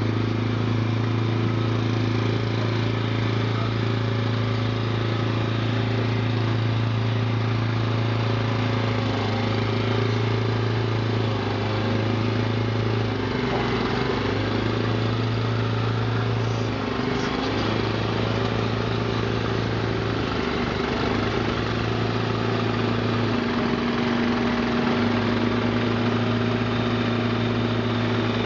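Diesel engine of a heavy road-transport truck idling with a steady low hum. In the second half the low hum drops away briefly several times and comes back.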